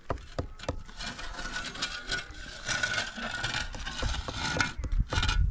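Scraping and rubbing with many scattered sharp knocks, like rough material being handled and worked.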